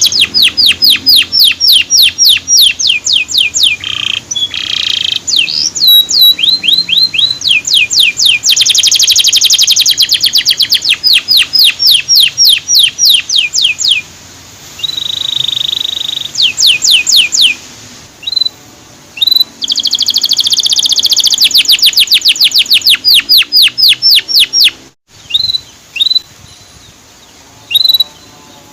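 Male canary singing long, rapid series of sweeping 'ciit cuit' chirps, several a second, with a few buzzy trill passages; from about 18 seconds in the chirps come more sparsely, in short groups and single notes.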